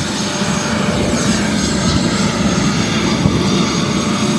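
Helicopter's engine and rotors running steadily.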